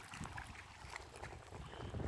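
Faint wind buffeting the microphone over water, an uneven low rumble with scattered small splashes and ticks.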